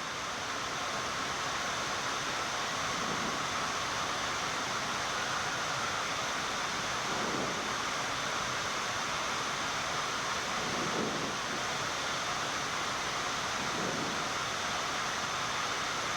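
Steady rushing flight-deck noise of a Boeing 787 on final approach with gear and flaps extended: airflow over the airframe mixed with the cabin air-conditioning hiss, even in level throughout.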